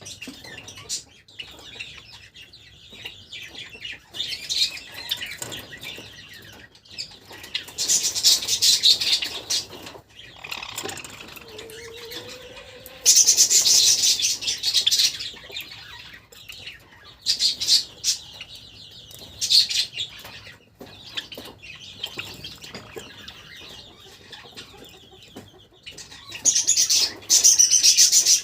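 Pet Java sparrows chirping and chattering in quick, high-pitched bursts of one to two seconds, several times over, with softer chirps in between.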